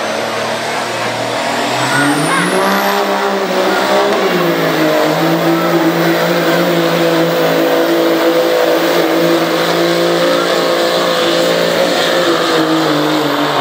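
Turbocharged Cummins diesel pickup engine held at high revs under load, pulling a sled. The engine note climbs over the first few seconds, dips briefly about four seconds in, then holds steady and drops away near the end.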